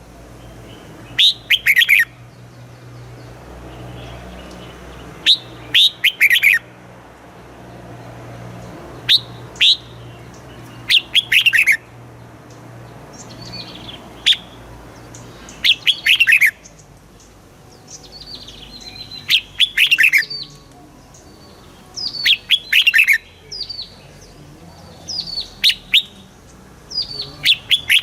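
Red-whiskered bulbul singing: short, loud phrases of quick falling notes, repeated every second or two.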